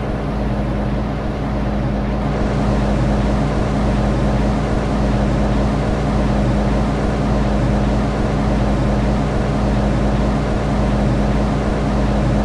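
Steady hum and low rumble of an MTR M-Train electric multiple unit, with a constant low drone and no change in pitch or level.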